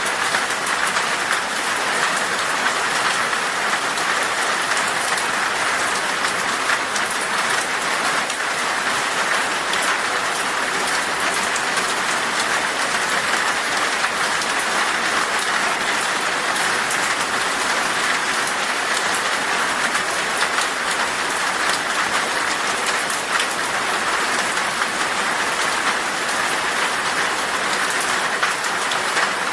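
Heavy rain falling steadily on window glass: a dense, even hiss with many small drop hits throughout.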